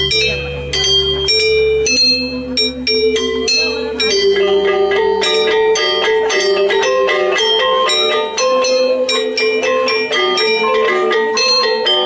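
Balinese gamelan music: metallophones play a dense, fast run of bright, ringing struck bronze notes. A low hum underneath fades out about four seconds in.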